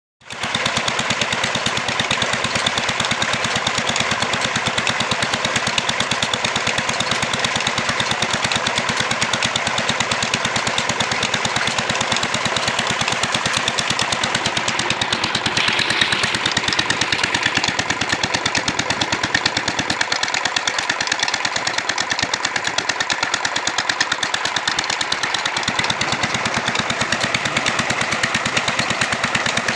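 Petter diesel engine running steadily, its exhaust beating in a rapid, even rhythm.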